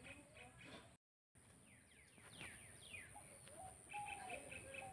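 Faint bird calls, a string of quick falling chirps. The sound drops out completely for a moment about a second in.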